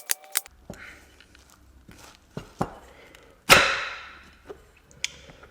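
Sharp knocks and clicks of metal transmission parts being handled while the C brake piston is worked out of its drum. One much louder hit comes about three and a half seconds in and fades over about a second.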